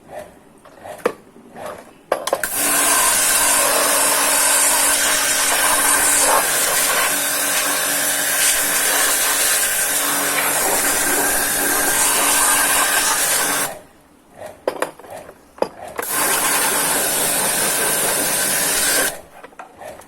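A motor-driven machine running steadily with a loud rushing hiss of air, run twice: a long stretch of about eleven seconds and then a shorter one of about three seconds. It is switched off in between, where there are a few clicks and handling knocks.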